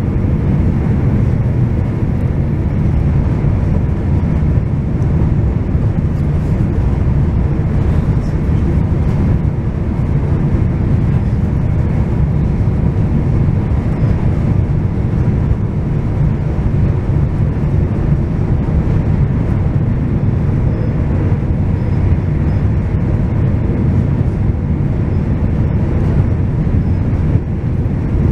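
Passenger train running, a steady low rumble with no break.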